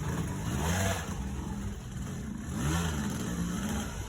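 Dirt bike engine revving up and down, its pitch rising and falling as the throttle is worked.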